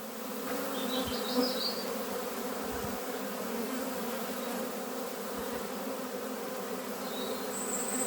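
Honey bees buzzing around an open hive in a steady droning hum, with a couple of faint high chirps about a second in and near the end.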